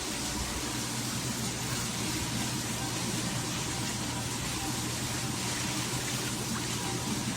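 Steady rushing water noise with a low steady hum beneath it.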